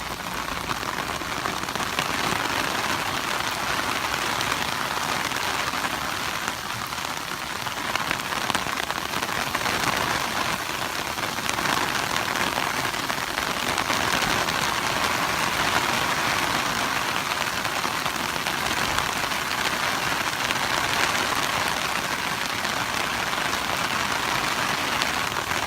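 Heavy rain pouring down and hitting surfaces: a steady, dense hiss.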